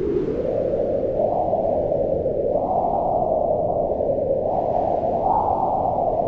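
Howling wind: a steady, noisy rush with no breaks whose pitch swells and falls in slow gusts, rising about two and a half seconds in and again near five seconds.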